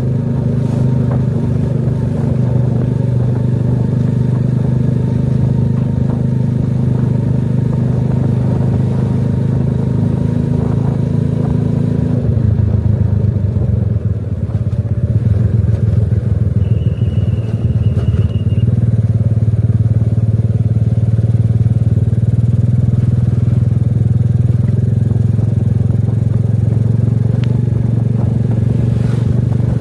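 A small engine running steadily; its pitch eases down about twelve seconds in and picks back up a few seconds later.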